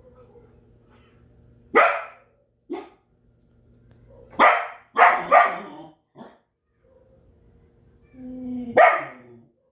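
Belgian Malinois barking in loud, sharp single barks: one about two seconds in, a quick run of three around the middle, and one near the end, with a couple of softer short barks between.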